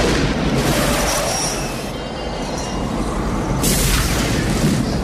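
Movie-trailer tornado sound effects: a loud rush of wind with high screeching tones, surging once at the start and again about three and a half seconds in.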